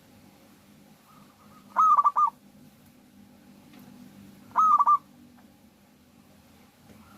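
Zebra dove (perkutut) cooing: two short, loud phrases of quick repeated notes about three seconds apart, with a run of faint short coos just before the first.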